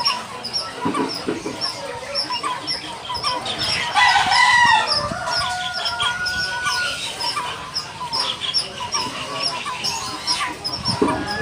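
Young lineated barbet calling: a steady run of short, high chirps, about three a second, mixed with lower ticks. About four seconds in, a louder, drawn-out call with a held note lasting about two seconds comes over them.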